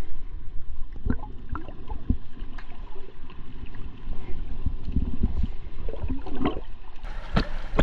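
Water sloshing and gurgling around an action camera while swimming, with a low rumble and irregular small pops and knocks.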